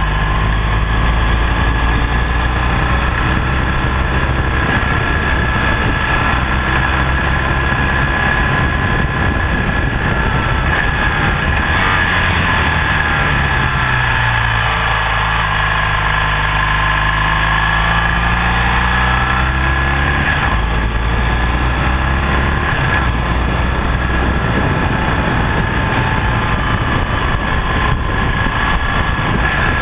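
BMW R1200GS LC's boxer-twin engine running under way. Its pitch falls steadily toward the middle, as the bike slows, then climbs again as it accelerates away.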